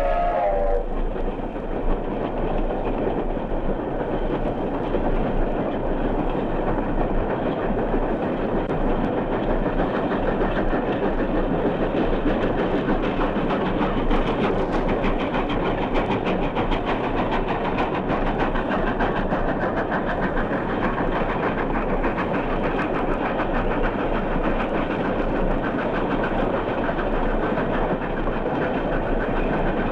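Steam locomotive running at speed with a train: its whistle dies away in the first moment, then exhaust and wheels on the rails make a steady, rapid, clattering rush.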